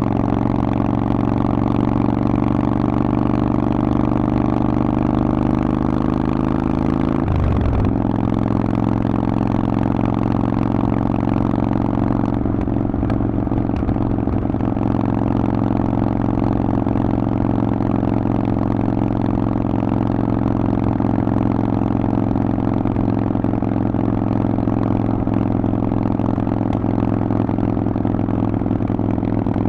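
Harley-Davidson Forty-Eight's V-twin running through a Vance and Hines exhaust while riding. The engine note rises slowly, breaks off briefly about seven seconds in, then runs steadily.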